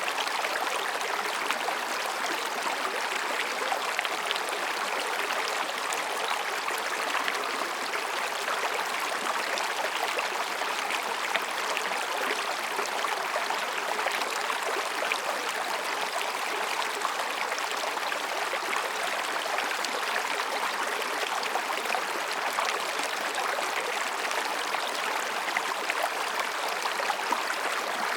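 Mountain stream rushing and babbling over rocks: a steady, even wash of water with many small splashes and gurgles.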